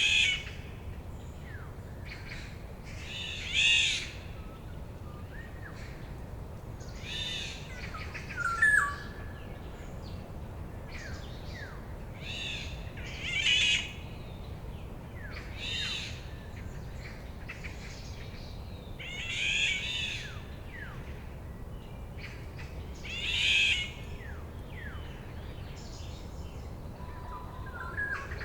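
Wild songbirds singing in a forest: short, bright, warbled phrases repeat about every three to four seconds, with a brief whistled note about a third of the way in. A steady low rumble runs underneath.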